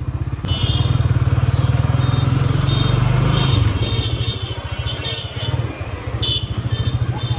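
Suzuki GSX-R sportbike engine running at low revs while the bike is maneuvered at walking pace, the exhaust note easing off about halfway through and again briefly near the end.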